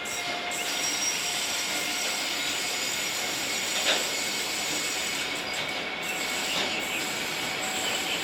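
Train rolling past with its wheels squealing against the rails, a few steady high squeal tones held over the running noise. A sharp click about four seconds in.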